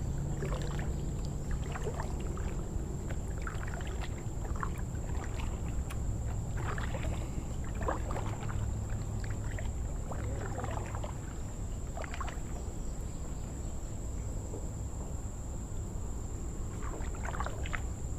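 Kayak on open water: a steady low rumble with scattered small splashes and drips of water, and a thin steady high-pitched whine.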